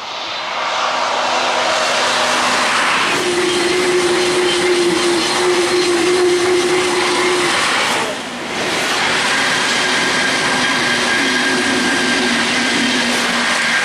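Road and wind noise of a car travelling at motorway speed: a steady, loud rushing with a faint hum that shifts pitch a few times, easing briefly a little past halfway.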